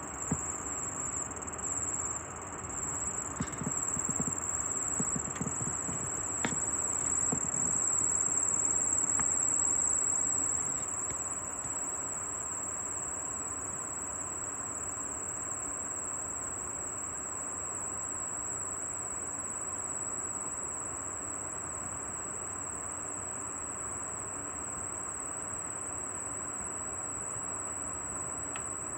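Air conditioner indoor unit fan running with a steady high-pitched squeal, a plastic-rubbing noise that apparently comes from the part holding the fan shaft on the left side, which is to be replaced. A few light clicks sound in the first several seconds, over the steady rush of the fan's air.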